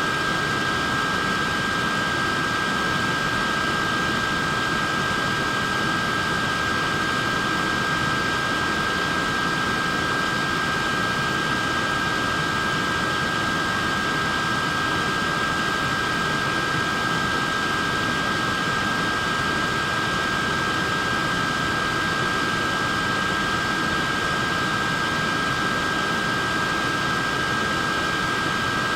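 Wearable neck fan running steadily: a constant whoosh of moving air with a steady high-pitched whine from its small motor.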